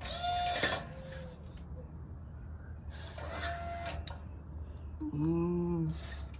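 Adhesive tape pulled off a roll in two short rasping pulls, one at the start and one about three seconds in, then a short low voice-like sound, a hum or grunt, about five seconds in.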